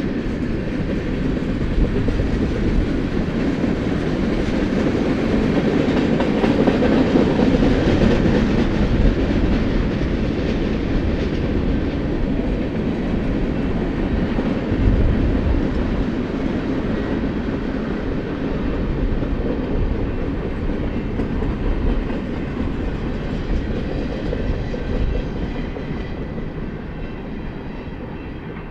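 Freight cars of a BNSF manifest train rolling past, their wheels clattering steadily over the rails, the sound easing off over the last few seconds.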